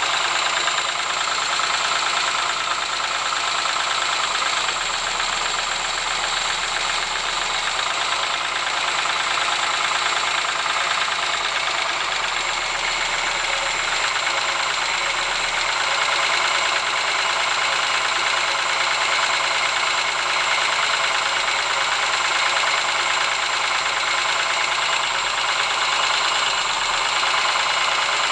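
Ford Sierra engine running steadily with a rapid, even knocking from inside the engine, the knock that is the engine's fault.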